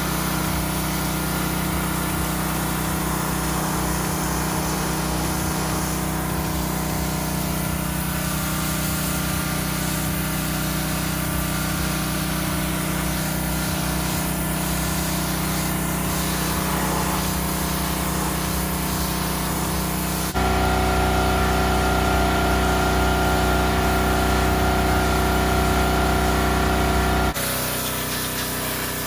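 Pressure washer running, its motor humming steadily under the hiss of the water jet spraying. The sound changes abruptly twice, getting louder about 20 seconds in and shifting again near the end.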